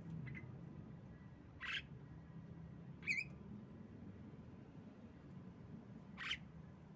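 Female Javan myna (jalak kebo) giving four short, sharp calls spaced one to three seconds apart. The first is faint and the loudest comes about three seconds in. A low, steady hum runs underneath.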